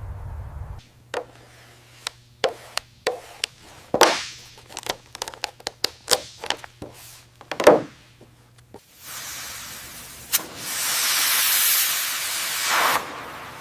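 A low hum stops about a second in, followed by a run of irregular sharp clicks and knocks, then a steady hiss lasting about four seconds.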